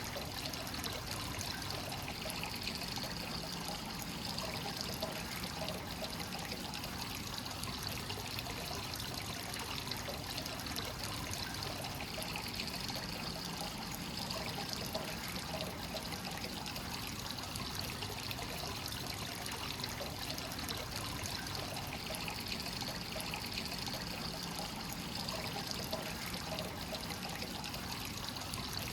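Hot-spring water flowing continuously from the source into a bath, a steady trickling pour.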